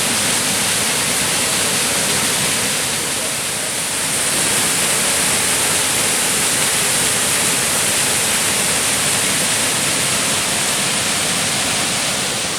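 Steady, loud rush of a small waterfall on a mountain creek, water splashing down over rock.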